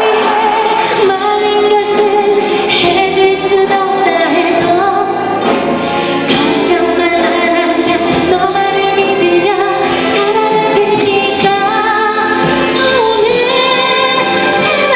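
A female pop vocalist singing a ballad with a live youth orchestra accompanying her.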